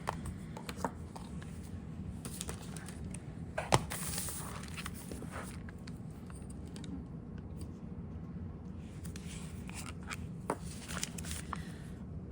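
Desk handling sounds of pen and paper: scattered light clicks and taps with patches of paper rustling, and one sharper click about four seconds in, over a steady low hum.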